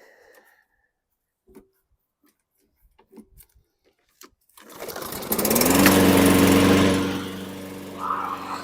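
Lawn mower's Briggs & Stratton 625EX engine starting about halfway through, after a few light clicks, then revving up and settling to a steady, quieter run.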